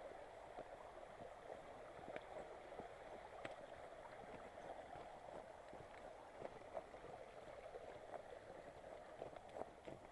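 Faint mountain stream running over stones, with scattered small clicks of footsteps on the rocky riverbed.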